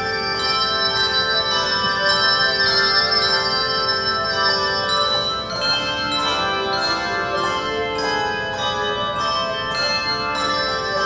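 Handbell choir ringing a piece of music, many bells sounding together with new notes struck about every second and each note ringing on as it decays.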